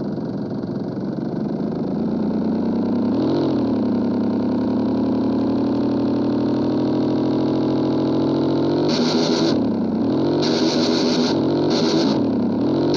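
160 cc single-cylinder motorcycle engine running with only the bare exhaust pipe, no muffler, idling loudly with a short throttle blip about three seconds in and then four quick revs in the second half, each with a sharp, raspy exhaust bark.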